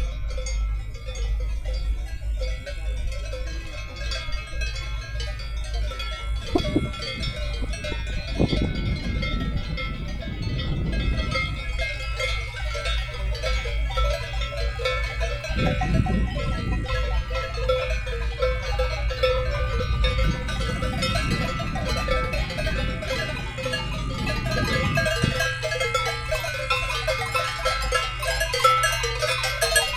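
Many cowbells clanking and ringing together at different pitches, as a herd of cows grazes on an alpine pasture, over a steady low rumble.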